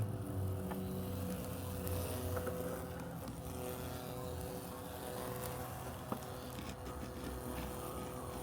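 Robotic lawn mower running steadily: a constant electric-motor whine with a low hum that fades in the first couple of seconds. A single short click about six seconds in.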